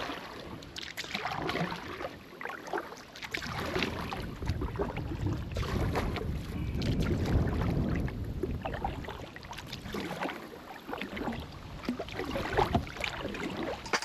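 Kayak paddle strokes in the water, with irregular splashing and dripping, while wind buffets the microphone in uneven gusts.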